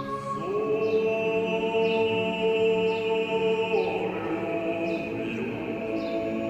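Choir of voices singing long, sustained chords in close harmony, so smooth they sound almost like an instrument. New held notes slide in about half a second in and again around four seconds in.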